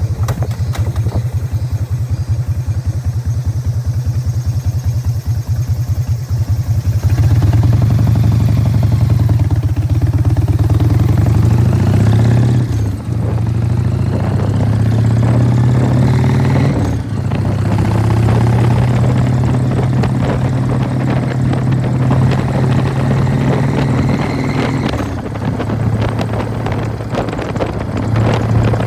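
1999 Harley-Davidson Fat Boy's Evolution V-twin running through loud Python mufflers while riding, a deep pulsing exhaust note. About a quarter of the way in it grows louder and climbs in pitch under acceleration, with brief drops in the note at gear changes a little before and after the middle.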